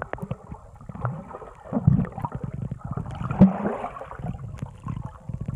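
Underwater bubbling and gurgling, a dense run of irregular crackles and pops, with a couple of short muffled vocal sounds as a person tries to talk under water.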